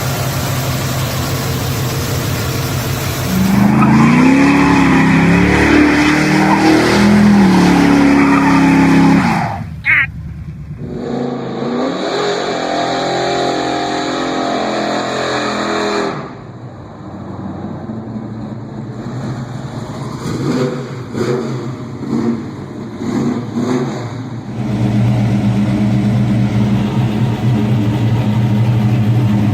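Muscle car engines running and revving, the pitch rising and falling, in several short clips that change abruptly from one to the next.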